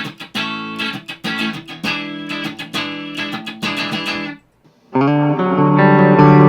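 Gibson Les Paul electric guitar strumming full chords through a Mooer GE300's Tone Capture, set to make it sound like a Fender Stratocaster, into an EVH 5150 III amp. The strokes stop about four and a half seconds in. Just before the end a louder, sustained guitar sound with the highs rolled off starts.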